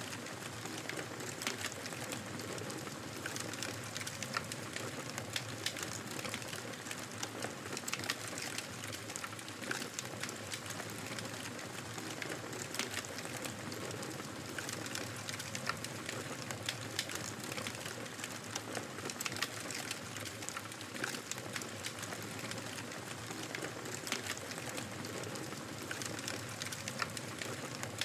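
Wood fire crackling in a fireplace: a steady soft hiss of burning, thick with small snaps and pops coming irregularly, several each second.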